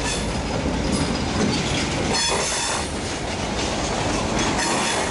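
A diesel-hauled freight train passing close by: a locomotive goes by, then tank cars roll past with the clicking of wheels over rail joints. A brief high wheel squeal comes about two seconds in.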